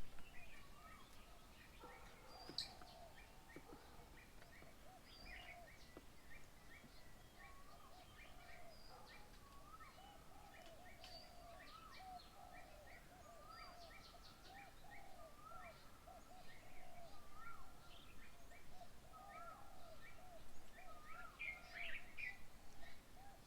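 Several birds calling at once, faint: a dense run of short repeated notes, with higher chirps and whistles over them, a little louder in the second half.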